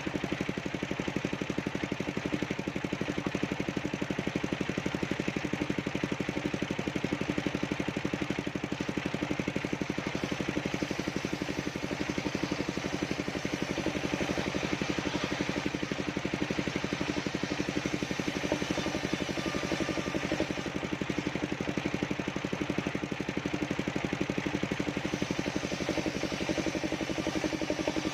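Engine of a portable circular sawmill running steadily with a fast, even pulsing beat.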